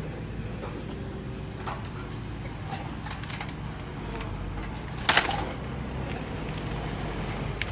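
A motor engine running steadily, with scattered knocks and clatter of debris being handled and one louder bang about five seconds in.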